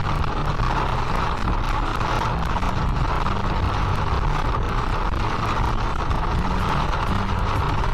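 A car on the move: steady road and engine noise with a low rumble.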